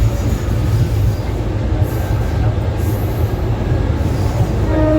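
Passenger train's steady low rumble. A horn starts sounding near the end.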